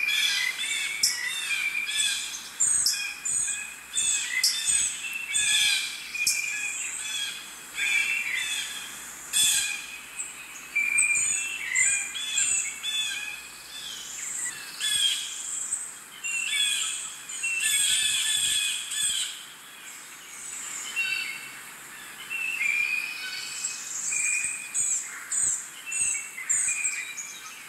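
Several birds calling and singing at once: a dense run of short chirps and whistles, overlapping throughout.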